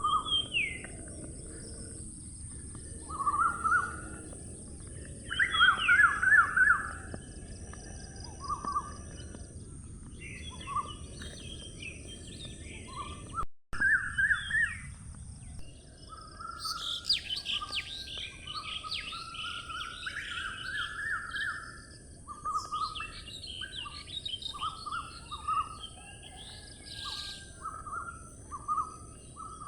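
Birds chirping and calling: many short repeated chirps and trills, some in quick runs, over a steady high hiss. The sound cuts out for an instant about thirteen seconds in.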